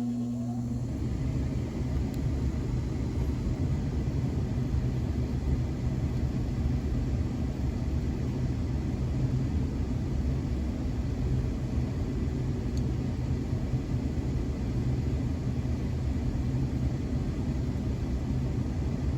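Old GE gas furnace running with a steady low rumble and hum.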